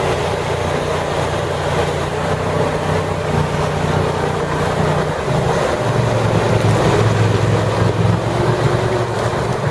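Amphibious 6x6 ATV engine running steadily under load through water, its note dropping and growing stronger about halfway through, with a constant rush of water and wind noise.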